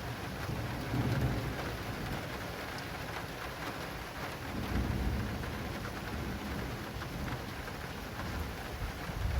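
Rain falling steadily on an acrylic awning, with low thunder rumbling about a second in and again around the middle.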